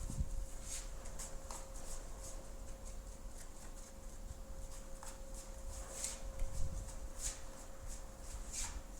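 A spatula scraping and smearing body filler, in short, light strokes every second or so. A faint steady hum runs underneath.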